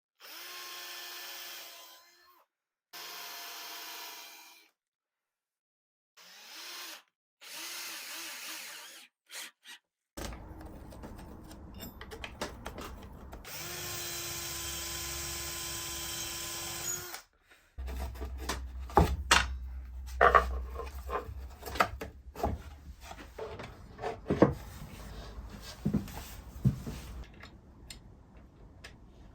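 Power drill running into MDF in several short runs of a second or two, then one longer run, followed by a series of sharp knocks and clatter.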